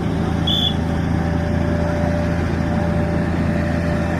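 A hydraulic pile-driving machine's engine and hydraulic pump running steadily, a low hum with a faint steady whine over it. A brief high chirp sounds about half a second in.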